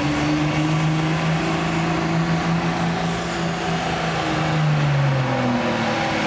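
Diesel pickup truck engine running at high revs under heavy load during a truck pull, its pitch held steady and creeping up slightly, then dropping off about five and a half seconds in as the revs fall.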